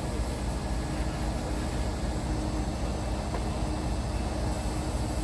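A heavy engine running steadily at constant speed, a continuous low rumble with a faint steady hum over it.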